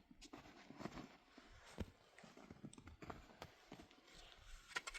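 Faint, irregular knocks and scrapes of a person moving about and handling things in snow.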